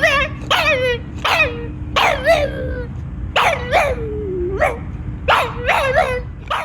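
A dog barking and yelping repeatedly, about ten short calls in a row, each sliding down in pitch and some wavering. The calls cut off abruptly at the very end.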